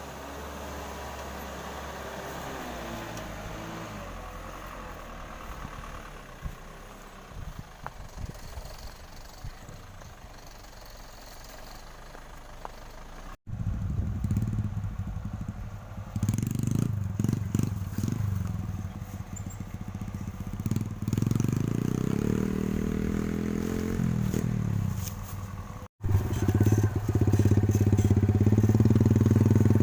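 Sugarcane truck's diesel engine running under load, quieter at first with some clattering, then loud and low with its pitch rising and falling from about halfway. The sound breaks off abruptly twice.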